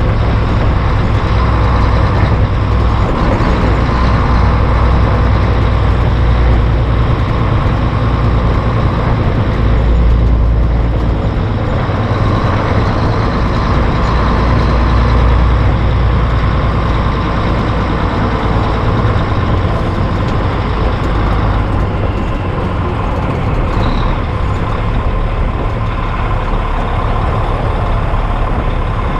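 Heavy diesel truck engine running steadily under way on the road, with a deep low hum; around ten seconds in the low drone swells briefly and then settles.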